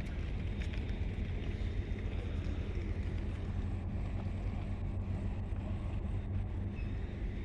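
Steady low rumble of a running vehicle, with one sharp click at the very start.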